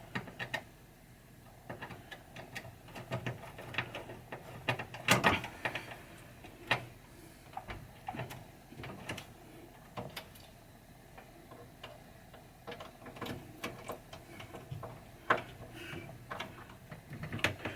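Irregular light clicks and knocks of small metal parts and tools being handled inside a pinball machine's cabinet, a few seconds apart, the loudest about five seconds in.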